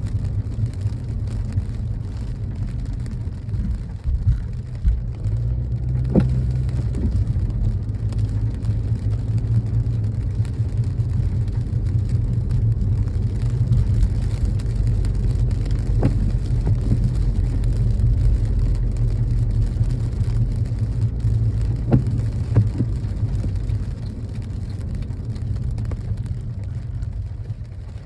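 Car driving in rain, heard from inside: a steady low rumble of road and engine, with a few light knocks spread several seconds apart.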